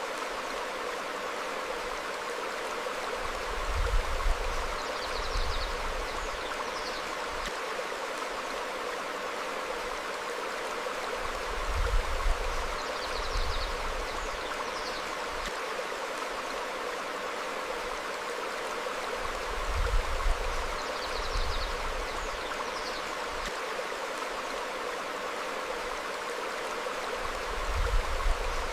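Stream flowing steadily over rocks, with a low rumbling swell about every eight seconds and faint high bird chirps shortly after each swell.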